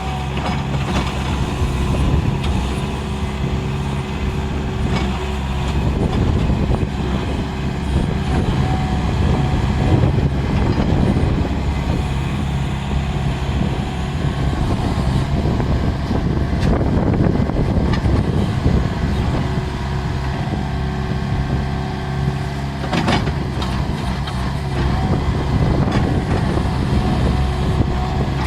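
Bobcat skid steer's diesel engine running steadily, with a couple of brief knocks.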